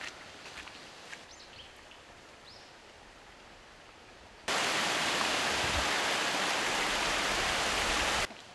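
Faint outdoor background with a few faint chirps, then about halfway through loud, steady rushing water of a valley stream that starts and stops abruptly.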